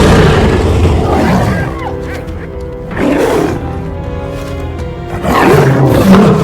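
Lion roars over orchestral film music: a roar at the start, another about three seconds in, and a longer one near the end.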